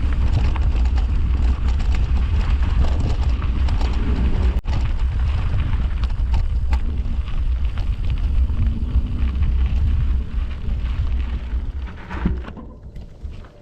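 Mountain bike riding over a dirt trail: tyres crunching on the ground with small clicks and rattles, under a heavy low rumble. It dies down about twelve seconds in.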